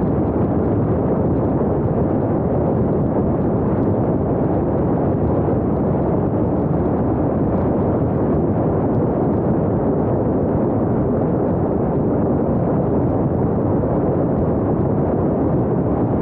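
Steady rushing wind and road noise from a moving vehicle on a small action camera's microphone, heavy in the low end, with no engine note or other event standing out.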